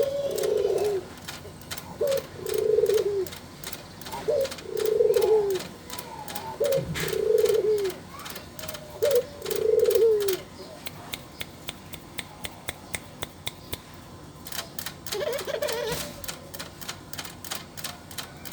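Puter dove (Barbary dove) cooing repeatedly: about five coos, one every two to three seconds, each a short note followed by a longer drawn-out coo. In the second half a light, regular clicking takes over, with one more coo near the end.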